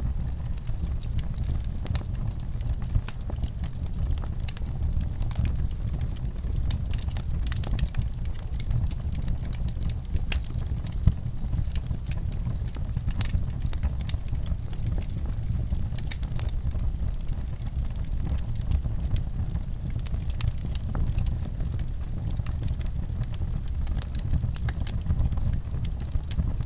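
Fire crackling, with frequent small pops and snaps over a steady low rumble; one sharper pop about eleven seconds in.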